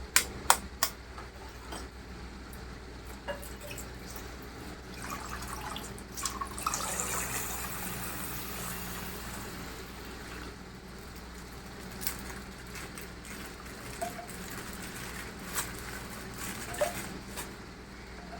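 Coloured water splashing and dripping from a burst plastic ice-pack bag as it is handled, with a few sharp clicks and taps. The splashing is loudest for a few seconds starting about six seconds in.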